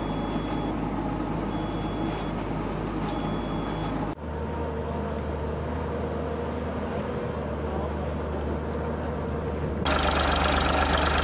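A motor engine running steadily, heard across three spliced shots, the last one louder and noisier. During the first few seconds there are three short high beeps.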